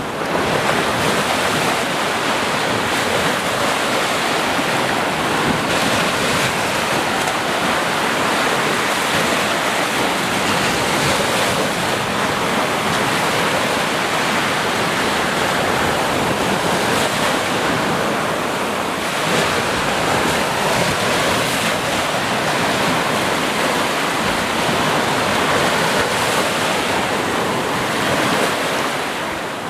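Sea waves breaking and washing on a shore in a steady, continuous rush, the surf swelling and easing gently in loudness.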